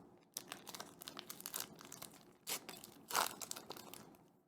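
Foil booster pack wrapper and cards crinkling and rustling as they are handled, in irregular crackles with a few louder crinkles.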